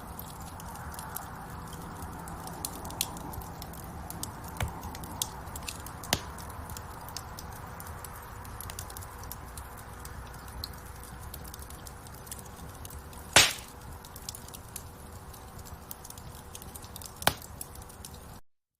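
Wood fire crackling in a fireplace: a steady hiss of burning with many small sharp crackles, a loud pop about 13 seconds in and another near the end. The sound then cuts off suddenly.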